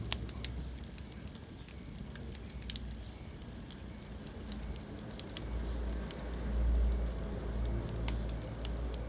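Wood fire crackling in a fireplace: irregular sharp pops and snaps over a low steady rumble of burning flames, which swells for a couple of seconds past the middle.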